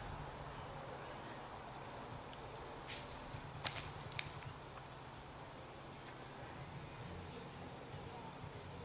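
Crickets chirping in a steady, fast, high-pitched pulse over a low hum, with a few faint clicks a few seconds in.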